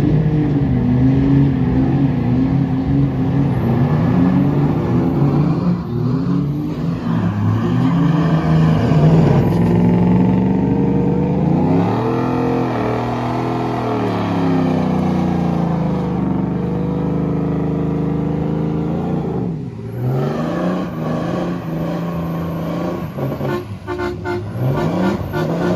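Truck engine revving hard, its pitch repeatedly climbing and falling back over a noisy haze; near the end it drops off briefly, then climbs again.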